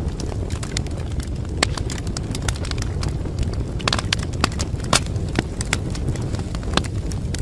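Wood fire burning in a fireplace: a steady low rumble of the flames with irregular sharp crackles and pops, a few louder pops about a second and a half in, around four seconds in and at five seconds.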